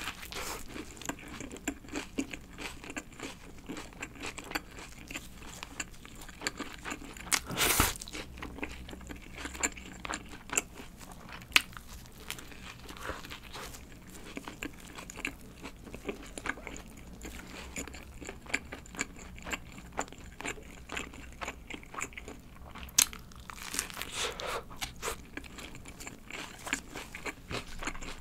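Close-miked biting and chewing of a McDonald's Lucky Burger: crisp crunches and many small wet chewing clicks, with a few louder bites, one about eight seconds in and others past twenty seconds.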